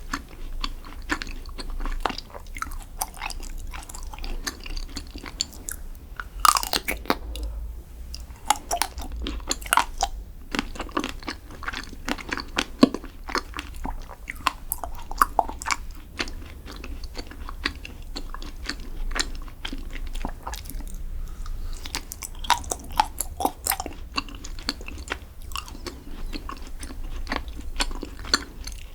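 Close-miked eating of chocolate desserts: steady chewing with many sharp, crisp crunches and crackles, a few louder snaps among them.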